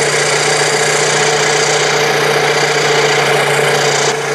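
Ford Model T four-cylinder flathead engine running steadily at a raised speed on a water-brake dynamometer, warming up under the light load of some water in the dyno. A brief dip in level comes about four seconds in.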